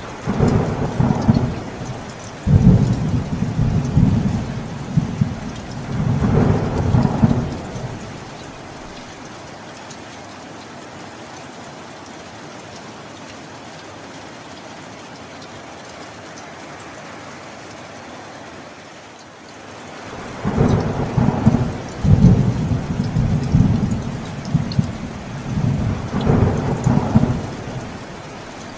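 Steady rain with two long rolls of thunder, each rumbling in several surges for about seven or eight seconds, one right at the start and one about twenty seconds in.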